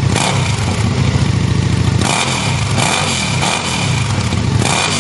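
Suzuki Gladius 645 cc V-twin running with its silencer removed, open at the header pipe. It runs steadily at first; from about two seconds in, the revs rise and fall a few times as the throttle is blipped.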